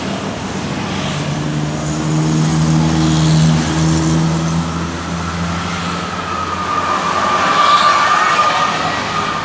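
A motor vehicle's engine running close by over street traffic noise, loudest a couple of seconds in. A steady high whine joins about halfway through and is loudest near the end.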